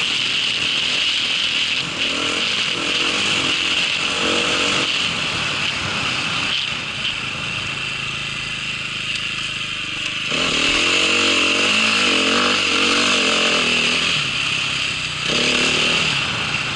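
Small vehicle engine running, its pitch wavering up and down as the throttle changes for a few seconds past the middle.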